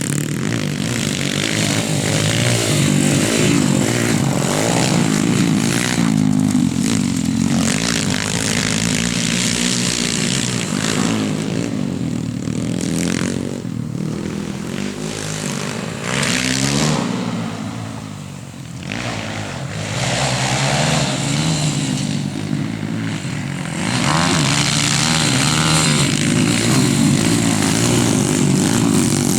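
YCF 140 pit bike's small single-cylinder four-stroke engine running, its revs rising and falling. It drops off briefly a little past the middle, then picks up again.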